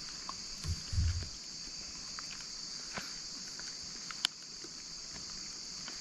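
Steady, high-pitched chorus of insects, with a soft low thump about a second in and a couple of faint clicks.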